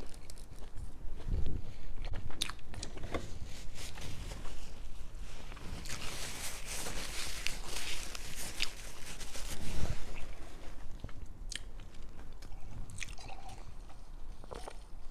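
Close-miked eating: biting and chewing with wet mouth clicks and a stretch of crunching about halfway through.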